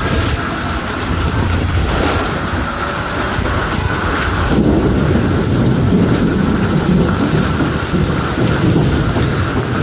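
Heavy rain falling steadily on an umbrella in a thunderstorm, with a low rumble of thunder swelling from about halfway through.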